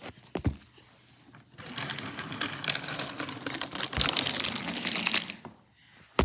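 A battery-powered toy train running on its track: a rapid mechanical rattling over a steady motor hum. It starts just under two seconds in and stops about four seconds later, with a couple of single knocks before it and one at the end.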